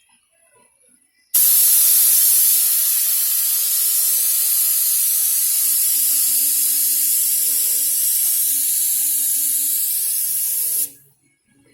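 Compressed-air paint spray gun spraying thick primer: one long, loud, steady hiss that starts about a second in and cuts off sharply shortly before the end, as the trigger is pulled and released.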